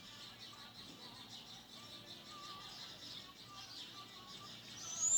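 Faint outdoor chorus of birds: a dense high chatter with short, thin whistled notes over it. Right at the end, a loud, high whistle slides up and starts.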